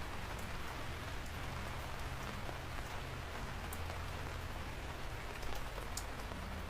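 Steady rain falling: an even hiss with scattered sharp ticks of individual drops striking a surface.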